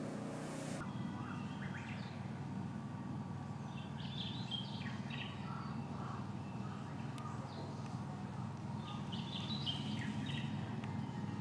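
Small birds chirping in short twittering clusters, heard three times over a steady low hum.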